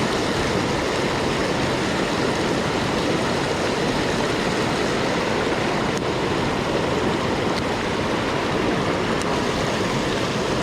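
Mountain stream water rushing steadily, running after rain. A few faint clicks come through the rush now and then.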